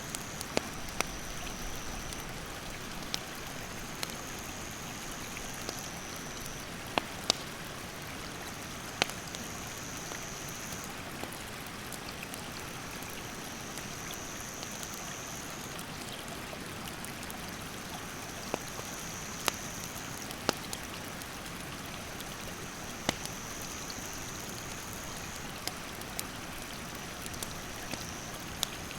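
Stream running steadily, with sharp pops and snaps of burning firewood scattered through it. An insect's high, even buzz repeats in stretches of a few seconds each.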